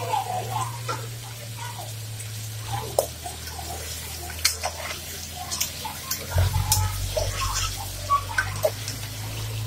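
Mutton pieces sizzling in sesame oil and ginger-garlic paste in a metal pressure cooker, stirred with a spoon that clicks and scrapes against the pot many times.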